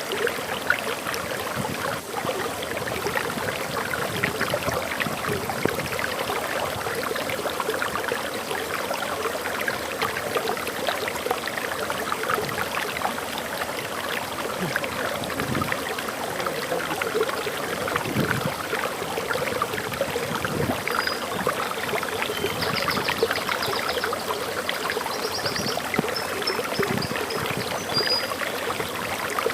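Water flowing and splashing steadily over a small forest waterfall. A few faint, high bird chirps come in during the second half.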